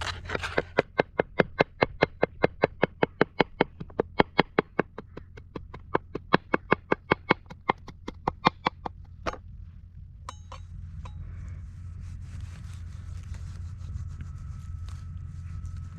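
Rapid, even knife chopping on a cutting board, about four or five strokes a second, that stops about nine seconds in; a few light knocks follow.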